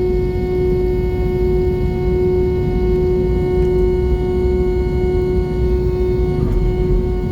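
Airbus A320 cabin noise: a steady low rumble with a constant pitched hum running over it.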